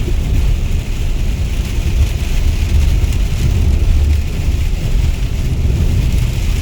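Steady heavy rain hissing, with a deep continuous rumble underneath.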